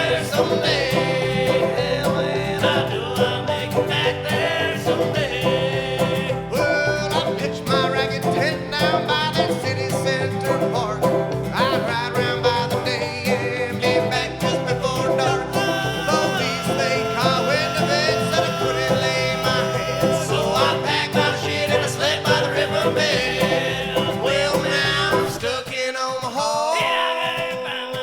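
Bluegrass string band playing an instrumental break, with banjo and guitar. Near the end the low bass part drops out and only the higher strings carry on.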